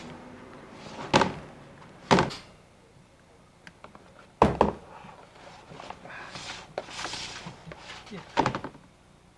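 Four dull knocks, about a second, two seconds, four and a half seconds and eight and a half seconds in, with softer rustling between them.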